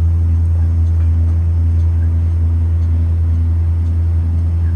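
2023 Blue Bird Vision propane school bus running with a steady low drone, with a low tone pulsing about twice a second over it.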